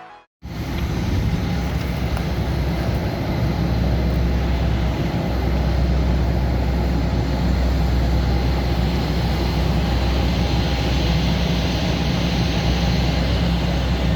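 Steady jet airliner noise from the Airbus A321neo: an even rush with a strong low hum, cutting in abruptly after a split second of silence and holding constant.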